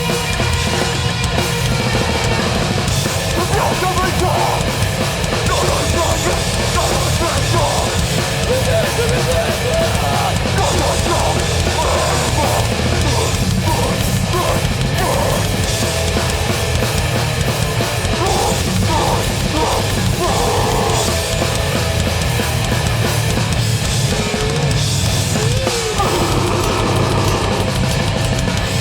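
Metallic hardcore band playing live, loud and without a break: heavily distorted guitars and bass over a pounding drum kit.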